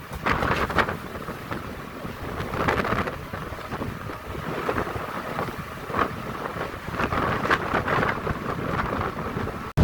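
Wind gusting over the microphone and rough sea on a ship in heavy waves, coming in irregular surges; the sound cuts off abruptly near the end.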